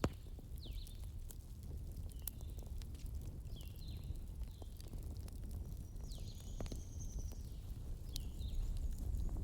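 Fireplace fire crackling: scattered sharp pops over a steady low rumble. Short high chirps recur about once a second throughout.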